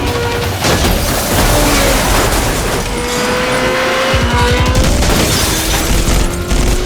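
Action-film soundtrack: dramatic score mixed with loud booms and car sound effects, with a quick run of low thuds about four seconds in.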